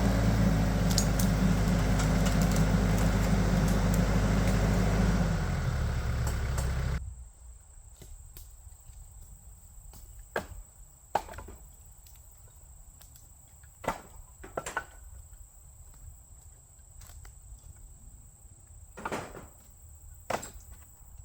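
Tractor engine running steadily, dropping to a lower speed about five seconds in and shutting off about two seconds later. Then scattered knocks and thuds of cut wood pieces being handled.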